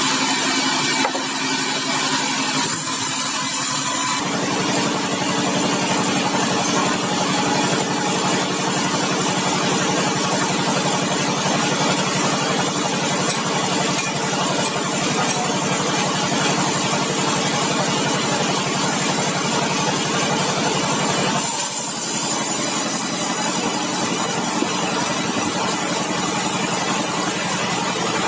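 Sawmill machinery running steadily, a loud engine-driven hum and whine with a rushing hiss, as the mill saws large bengkirai hardwood logs. The sound's character changes abruptly twice, about 4 seconds in and again near the 21-second mark.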